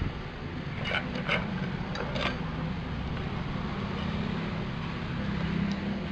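Four sharp knocks and clicks, in two pairs about a second apart, as the parts of a sawn-open refrigerator compressor are handled and pulled apart, over a steady low hum.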